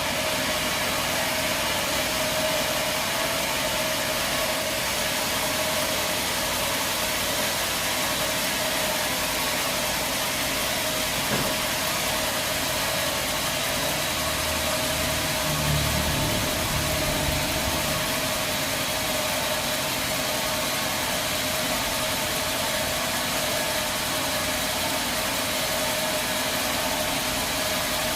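A machine running steadily, a constant hum over an even noise, with a few low thuds about halfway through.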